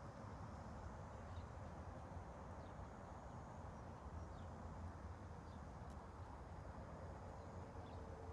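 Faint, steady ambient background noise: a low rumble with a hiss over it. A few faint, short, high chirps and a single tick come through.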